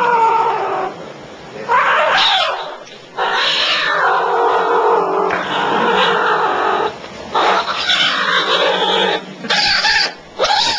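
Kitten growling and yowling angrily while guarding a bone, in a series of long, loud calls with short breaks between them.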